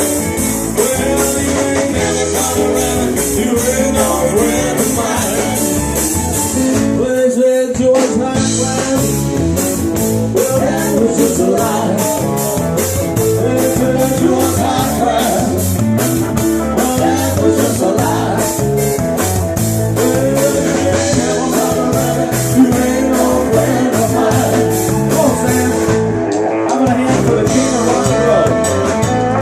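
Live band playing upbeat blues-style rock and roll with guitar and a steady drum beat, with a short stop about seven seconds in.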